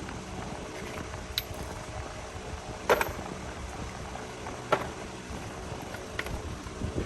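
A few sharp metallic clinks of hand tools and parts being handled during brake repair work, the loudest about three seconds in with a brief ring, over a steady low background hum.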